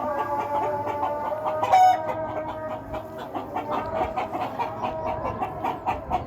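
Bird calls, short clucking-like notes repeated several times a second, over steady held tones like background music.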